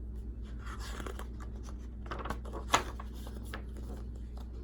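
Page of a picture book being turned: paper rustling and crinkling in two spells, with a sharp tap about three seconds in, over a low steady hum.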